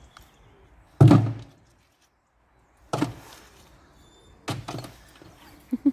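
Three dull, heavy thuds, about one, three and four and a half seconds in, the first the loudest.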